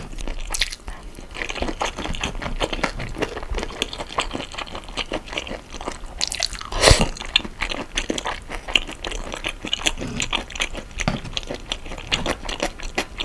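Close-miked chewing of marinated raw shrimp with rice: a dense run of small mouth clicks, with one louder sharp sound about seven seconds in.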